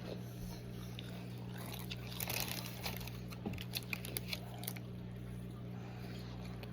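A person biting and chewing McDonald's French fries, with scattered soft crunches and mouth clicks, most of them about two seconds in and again near five seconds, over a steady low hum.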